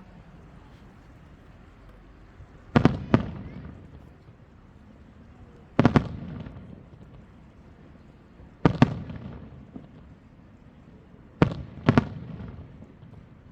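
Aerial firework shells bursting overhead: four loud bangs about three seconds apart, the first and last each a quick double crack. Each bang is followed by a rumbling echo that fades over a second or so.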